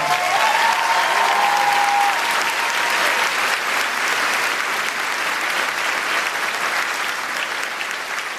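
Large audience applauding, with a few voices cheering near the start; the applause slowly dies down.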